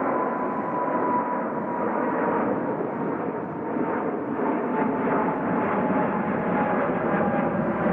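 Jet airliner engines running at takeoff power: a loud, steady roar with a whine that slowly falls in pitch as the aircraft passes.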